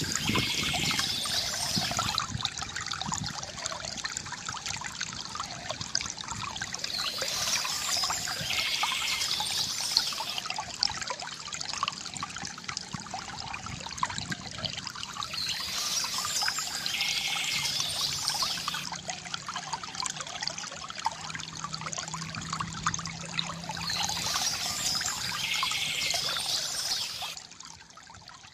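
Water trickling and pouring from a bamboo fountain, a steady gurgle with a brighter splash that recurs about every eight seconds, dropping away suddenly near the end.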